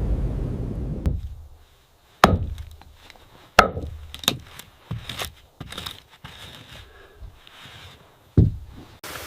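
Wood being chopped or struck with sharp blows: two hard strikes about a second and a half apart, then several lighter knocks. A low rushing noise fades out in the first second or so.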